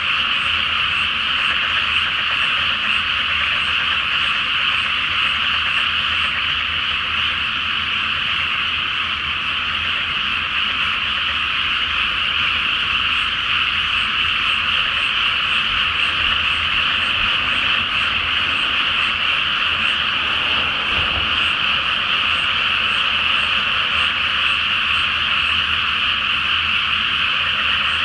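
A large chorus of frogs calling from a flooded rice paddy. The calls blend into a steady, unbroken high-pitched wall of croaking with no pauses.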